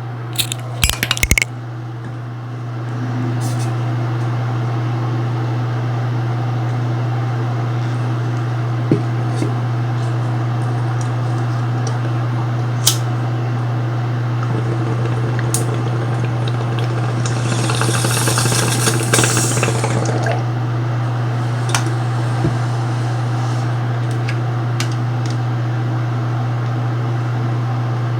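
Hurricane-force wind and rain rushing steadily over a livestream camera's microphone, with a louder gust about two-thirds of the way through and a few scattered knocks.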